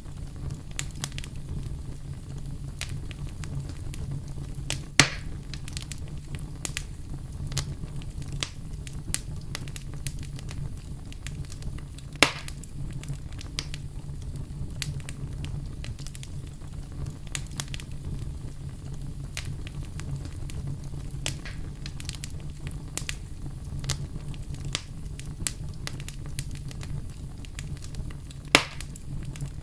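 Wood campfire crackling: a steady low rumble of flames under constant small crackles, with three louder pops spread through.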